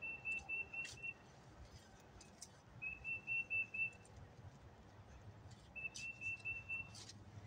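A bird calling: three runs of five or six short, evenly spaced notes on one high pitch, each run about a second long and a few seconds apart, with a few faint clicks between.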